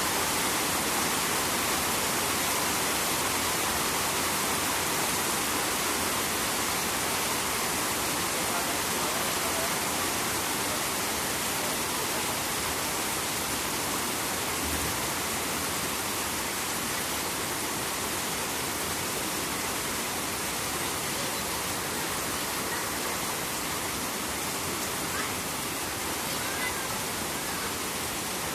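Steady rain falling near a river: an even, unbroken hiss of rainfall blended with flowing water.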